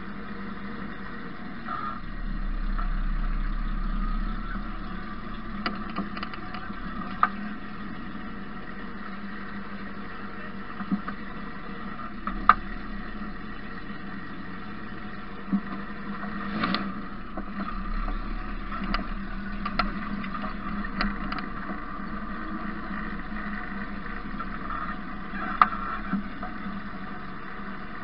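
Engine of an Opel GSI-based race car idling and running at low speed as the car rolls slowly, heard from on board, with a deeper rumble swelling a couple of times. A few sharp clicks and knocks break in now and then.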